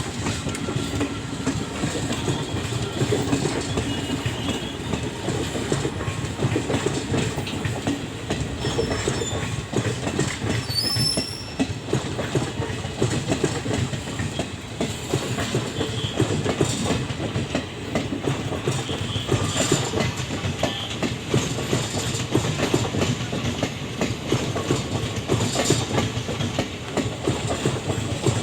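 Passenger express train rolling past, its wheels clattering steadily over the rail joints.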